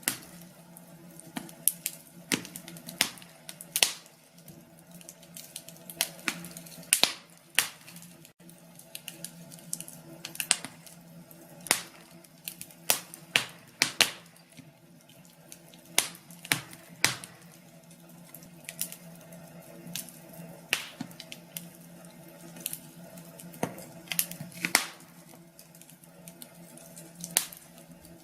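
Wood fire crackling and popping in a fireplace: irregular sharp pops, a few a second, over a low steady hum.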